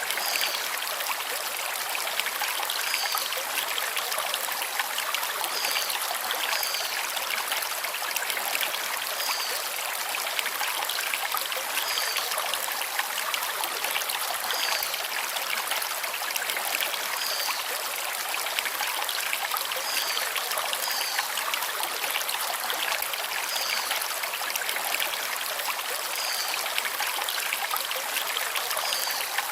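Stream water flowing and splashing over river stones in a steady rush. A bird gives a short high chirp every two to three seconds.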